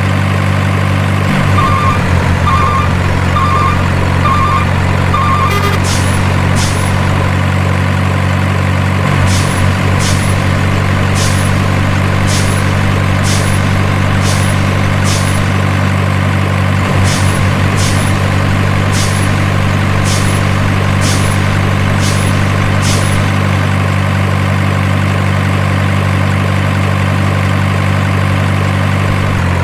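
Simulated truck engine sound, a steady idle that repeats as a loop. Five reversing beeps sound in the first few seconds, then sharp short ticks come roughly once a second until about three-quarters of the way through.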